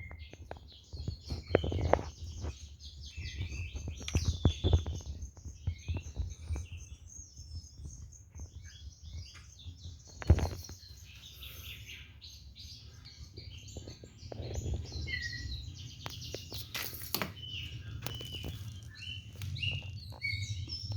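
Many caged songbirds chirping and trilling at once in a dense chorus, with scattered knocks and a single sharp loud knock about ten seconds in.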